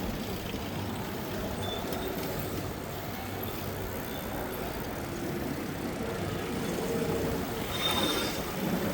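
Steady city traffic rumble heard from a moving bicycle, with a brief high squeak about eight seconds in.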